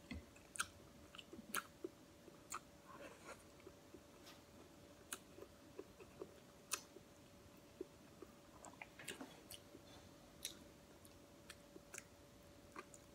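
Quiet chewing and soft, scattered mouth and finger clicks of someone eating rice and chicken curry by hand, over a faint steady hum.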